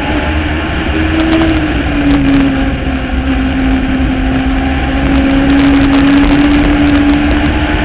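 Legends race car's Yamaha four-cylinder motorcycle engine running hard at racing speed. Its pitch rises briefly about a second in, dips around two seconds in, then slowly climbs again.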